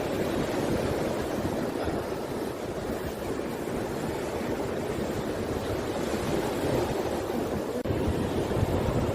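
Rough sea: a steady rush of waves and wind, with wind buffeting the microphone.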